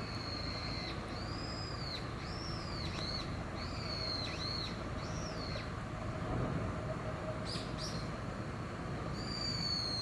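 A string of high, thin animal calls, each rising and then falling within about half a second, repeated over steady background hiss. Two short sharp squeaks come a little after seven seconds in.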